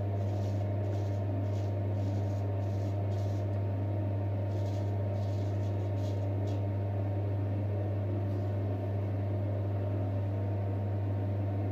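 A steady low hum, with faint short scraping strokes of a J. Nowill & Sons straight razor cutting through stubble over the first several seconds.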